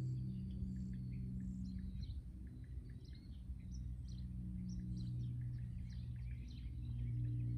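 Small birds chirping, with many short scattered calls, over a steady low hum.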